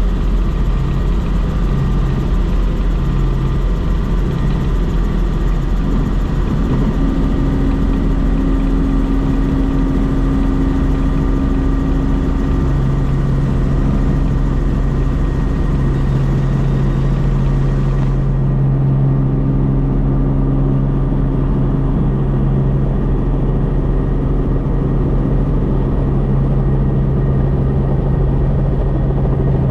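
Helicopter cabin noise in flight: a steady, loud drone of the rotor and engine with a low hum. About two-thirds of the way through, the higher hiss drops away.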